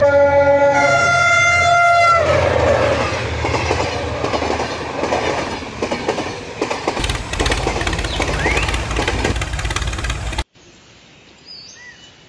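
Train horn sounding several tones at once for about two seconds, then the train running along with its wheels clacking on the rails. The sound cuts off suddenly near the end.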